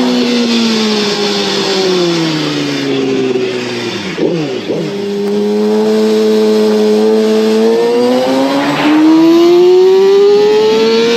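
Yamaha R6 inline-four engine under way. The revs fall for about four seconds, blip quickly up and down twice, hold steady, then climb in pitch as the bike accelerates over the last few seconds.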